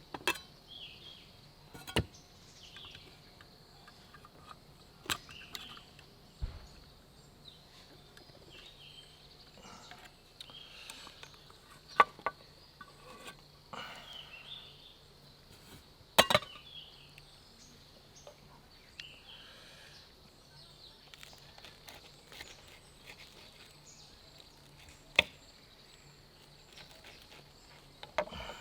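Outdoor ambience with a steady, high-pitched insect drone, broken by scattered sharp clicks and knocks, about eight of them, the loudest about twelve and sixteen seconds in.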